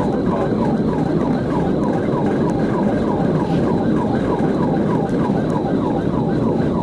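Police car siren in fast yelp mode, a sweep repeating about four times a second, over steady road and engine noise from a pursuit at high speed.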